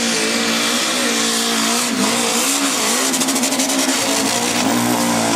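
Engine of a pulling machine running hard at high revs under the load of a pull, its pitch holding and wavering, with a brief dip about two seconds in and the revs starting to drop right at the end.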